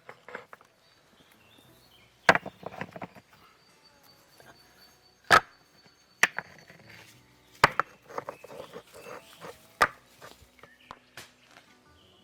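Axe chopping wood by hand: four hard strikes a couple of seconds apart, each followed by a patter of smaller knocks.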